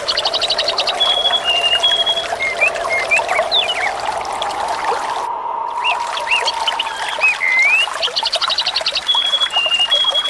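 Water trickling and running steadily while small birds chirp, whistle and give a quick trill over it. The same birdsong pattern comes round again about eight seconds later, as in a looped nature recording.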